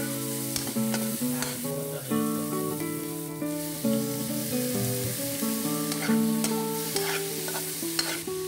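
Onion and sliced mushrooms sizzling in hot oil in an aluminium wok while a spatula stirs and scrapes against the metal, with a few sharp clinks. Background music plays under it.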